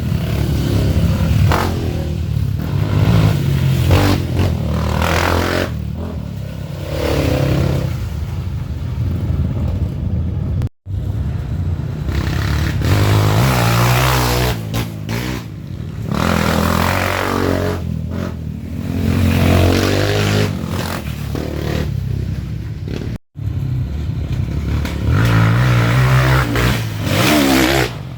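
Trail dirt bike engines revving up and down, rising and falling as the bikes work through the trail, with clattering. The sound cuts off abruptly twice, about eleven and twenty-three seconds in, and picks up again.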